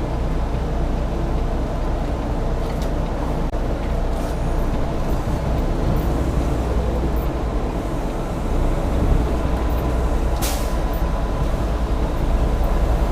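Semi-truck diesel engine running steadily at low speed as the rig manoeuvres, with a short hiss of air about ten seconds in.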